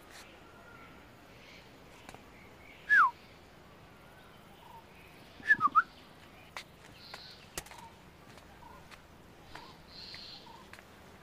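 Bird calls over quiet outdoor background: a single whistled note falling sharply in pitch about three seconds in, then three quick chirps a couple of seconds later.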